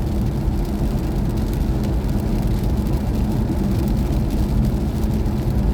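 Steady road and tyre noise heard from inside the cabin of a moving BMW i4 M50, an electric car, so there is no engine sound, only an even low rumble.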